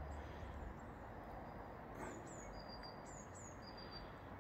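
A small bird singing a short phrase of high, falling whistled notes about two seconds in, over a steady faint background rumble of distant road traffic.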